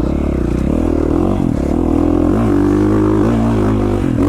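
KTM 450 XC-F dirt bike's single-cylinder four-stroke engine running under riding load. The revs dip, climb about two seconds in, hold briefly, then ease off near the end.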